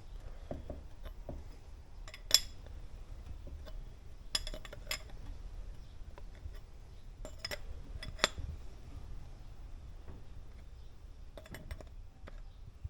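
Sharp metallic clicks and clinks of a hand tool against a dirt bike shock absorber as a screw on it is tightened back up after bleeding. The clicks are scattered and irregular, the loudest about two seconds in, with a low steady hum underneath.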